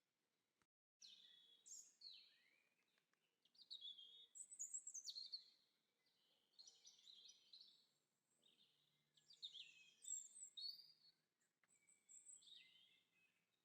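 Birds chirping and singing: short high-pitched phrases follow one another with brief pauses. The sound drops out completely for a moment about a second in.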